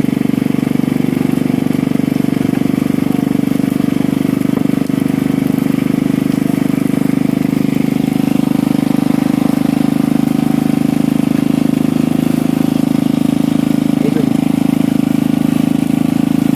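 A small engine running steadily at an even idle, a constant low hum with a fast, regular pulse.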